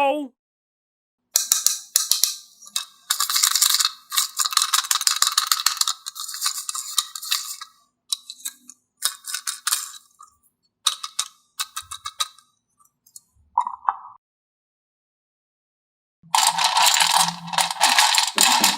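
Small hard objects rattling and clattering in several bursts of a few seconds each, like plastic toy pieces being handled or shaken, with a brief ding a little past the middle.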